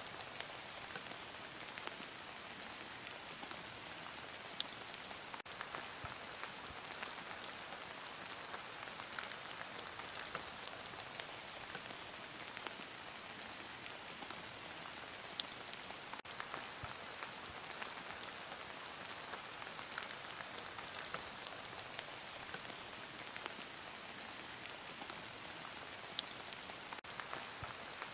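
Heavy rain falling steadily: a dense, even hiss of drops with many small ticks and a few louder single drop clicks.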